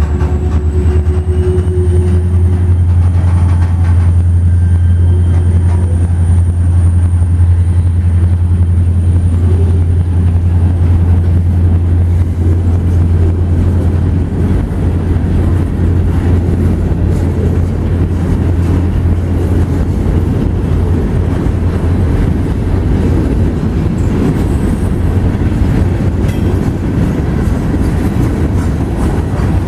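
Freight train cars rolling past on the rails: hopper cars, boxcars and tank cars, with a steady rolling rumble of wheels on track. A deep low drone under it weakens about halfway through.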